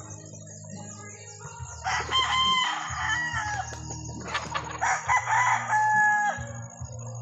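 Gamecocks crowing twice, each crow lasting about a second or two, over a low steady hum.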